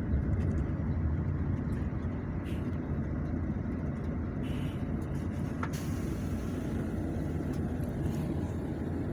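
Steady low rumble of a moving road vehicle, with a few faint ticks and rattles.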